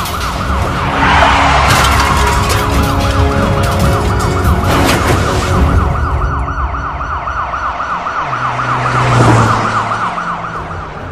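Police car siren in a fast yelp, its tone sweeping up and down several times a second, over the car's engine rumble. There is some clatter in the first seconds and a low hum swelling near the end.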